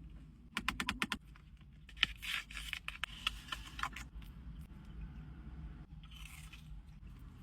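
Close-up scraping and tearing handling sounds as a Dubai chocolate bar and its wrapping are worked at by hand. A quick run of about eight clicks comes about half a second in, followed by a couple of seconds of crinkly scraping.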